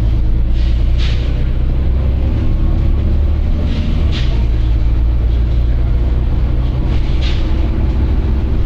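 Volvo B9TL double-decker bus's six-cylinder diesel engine running with a steady low drone. Several short air hisses from its compressed-air system break in over it.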